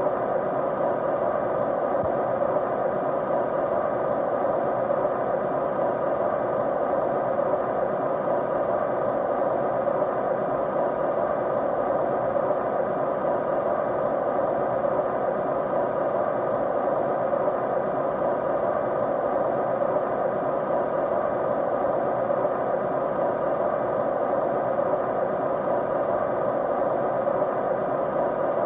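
Steady white noise: an even rush without breaks or changes, fullest in the middle of the pitch range.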